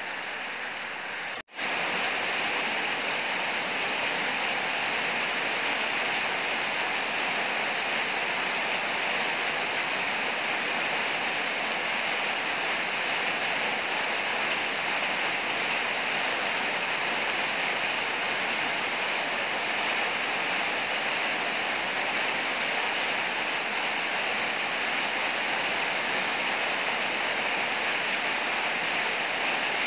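Heavy rain falling in a steady, even hiss. It cuts out for a split second about a second and a half in, then resumes slightly louder.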